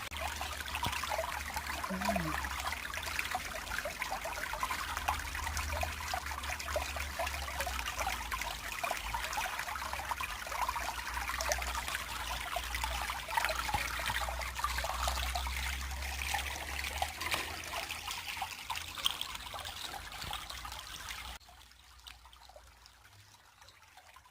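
Creek water trickling and running steadily, over a low rumble. The water sound drops away abruptly about 21 seconds in.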